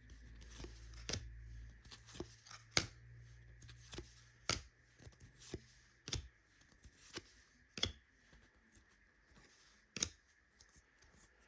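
Trading cards being handled: sharp, irregular clicks and snaps as cards are flicked through and set down one after another. A faint low hum underneath stops about six seconds in.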